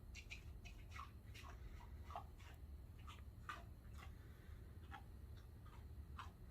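Faint, irregular clicks and ticks, two or three a second, over a low steady hum.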